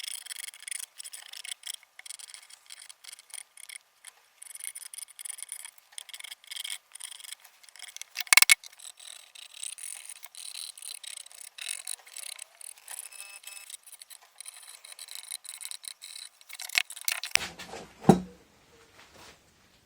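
Busy, irregular scraping and rasping, like filing or rubbing, sounding thin with no low end. There is one sharp knock about 8 s in, and a heavy thud near the end.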